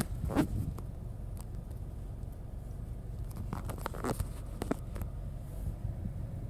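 Steady low vehicle rumble with scattered clicks and rustling from handling, the loudest clicks right at the start and a cluster a few seconds in.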